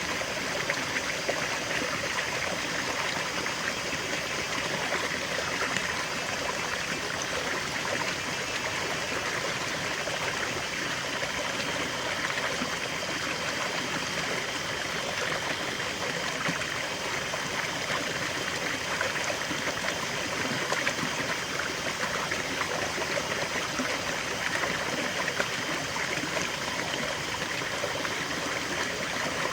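River water flowing and babbling over stones, a steady rushing with small trickles and splashes.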